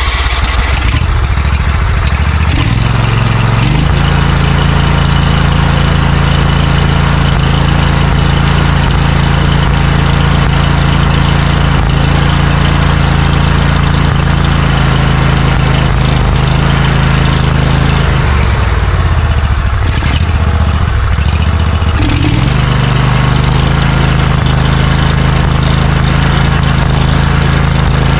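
Vanguard 20 hp V-twin engine of a Snapper zero-turn mower running, freshly started. It speeds up a few seconds in, drops in speed and comes back up about eighteen to twenty-two seconds in, then runs steady: the engine is being throttled on newly fitted choke and throttle cables as a test.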